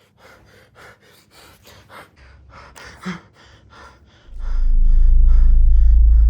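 A person breathing hard in quick gasps, about three a second. A little past four seconds in, music with a heavy deep bass drone comes in loudly and covers it.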